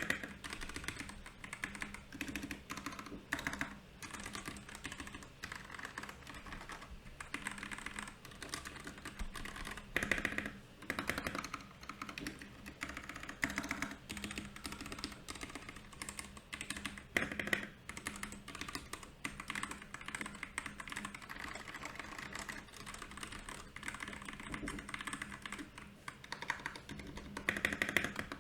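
Royal Kludge RK68 mechanical keyboard being typed on continuously, a fast, uneven run of key clicks and clacks with a few louder flurries.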